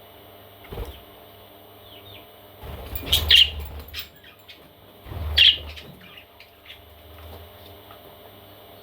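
Parrot chicks chirping, with two loud calls about three and five and a half seconds in, each over a low bumping rustle, and a softer one near the start.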